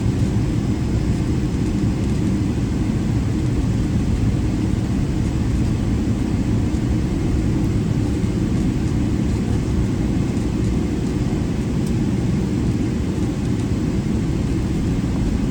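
Steady low rumble inside the cabin of a Boeing 777-300ER as it rolls off the runway just after landing.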